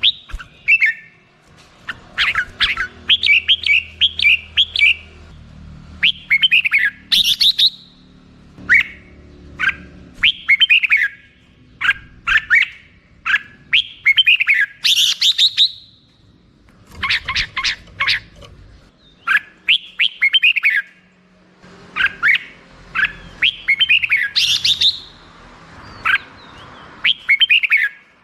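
Red-whiskered bulbul singing: short phrases of clear, whistled notes, many sweeping downward, repeated every second or two with brief pauses between bursts.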